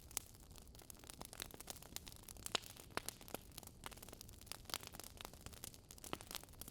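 Wood fire crackling: frequent irregular sharp pops and snaps over a soft hiss of burning logs.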